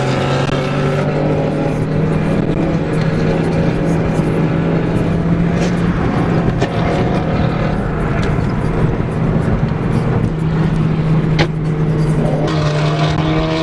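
Car driving at a steady speed: an even engine drone holding one low pitch, over road and wind noise.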